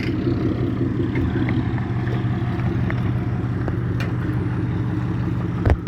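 An engine running steadily at a low, even pitch, with a single knock shortly before the end.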